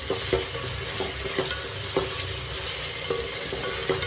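Onion, tomato and ginger-garlic masala sizzling in hot oil in a pot as it is stirred, with a steady frying hiss. The spoon knocks against the pot several times, each knock ringing briefly.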